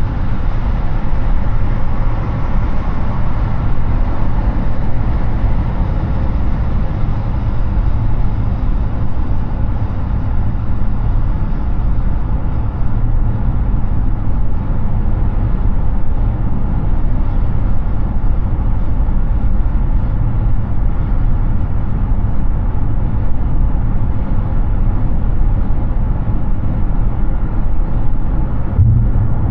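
Steady road noise of a Hyundai Ioniq 6 electric car cruising on the highway: tyre roar and wind rumble with no engine note, and one short low thump near the end.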